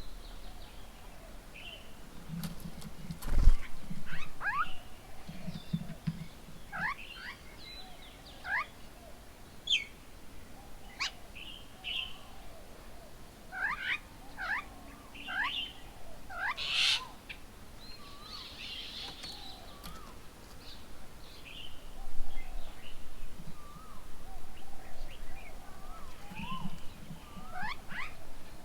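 Several birds calling around a bird table: many short chirps and whistled notes that slide up or down, scattered through the whole stretch. A sharp knock about three seconds in is the loudest sound.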